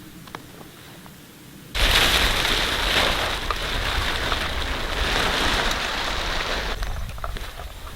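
A strong gust of wind hitting the microphone: a sudden loud rushing rumble that starts about two seconds in, holds for about five seconds and dies away near the end, after a few faint clicks.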